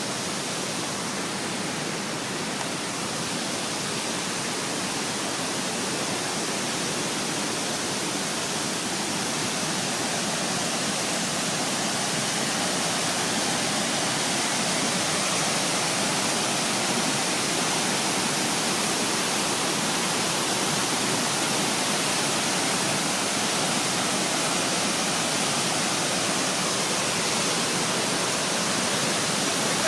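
Waterfall rushing: a steady, even roar of falling water that grows slightly louder through the stretch.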